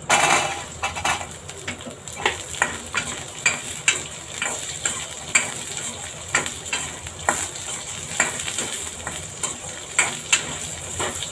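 Cut onions tipped into hot oil in a kadai with whole spices, sizzling loudly as they land. They keep frying with a steady hiss while a spoon stirs them, scraping and knocking against the pan many times.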